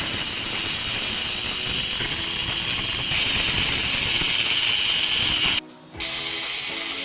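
Power tool working on stonework mortar, running loudly with a rapid mechanical chatter. It cuts out briefly about six seconds in and starts again.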